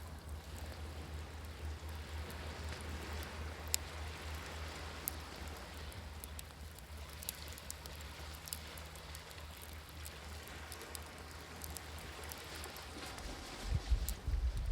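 Wood fire crackling, with scattered sharp pops over a steady wash of surf. Near the end, wind buffets the microphone.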